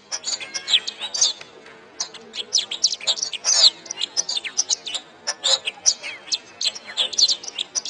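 Domestic canary singing a fast, continuous song of high chirps, rapid trills and gliding whistled notes, with a short lull about two seconds in.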